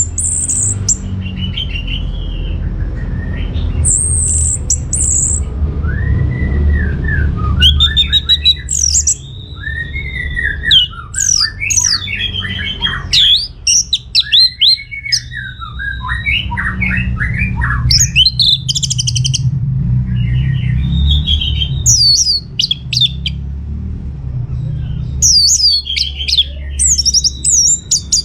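Orange-headed thrush (anis merah) singing a long, varied song of whistled slides and rapid chattering phrases, over a steady low rumble. The song is sparse at first and becomes dense from about a quarter of the way in.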